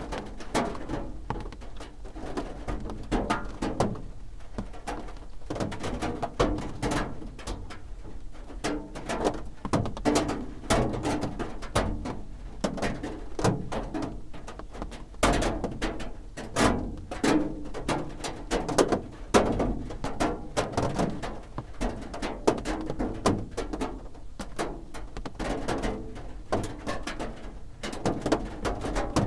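Raindrops drumming on a roof: a dense, uneven patter of drop hits, some louder than others.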